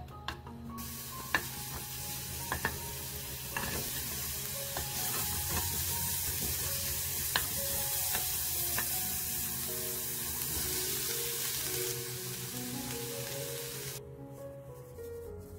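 Minced garlic and then sliced onion sizzling in oil in a nonstick frying pan, stirred with a wooden spatula that clicks against the pan now and then. The sizzle stops shortly before the end.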